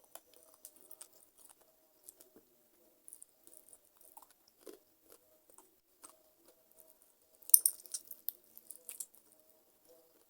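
Close-miked chewing and biting on chicken feet: scattered soft clicks and mouth sounds, with a louder cluster of bites about three-quarters of the way through.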